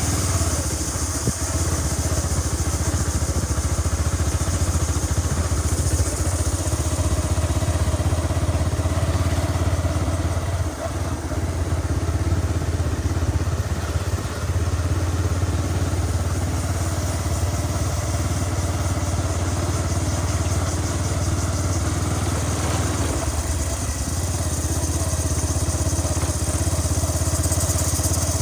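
Motor vehicle engine running steadily, a constant low drone, with a steady high hiss above it.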